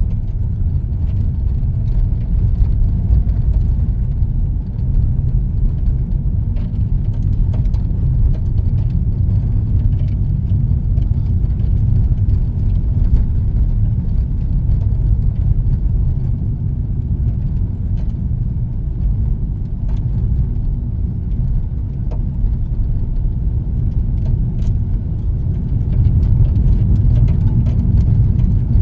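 Car driving at a steady speed, heard from inside the cabin: a continuous low engine and tyre rumble with faint scattered ticks, getting a little louder near the end.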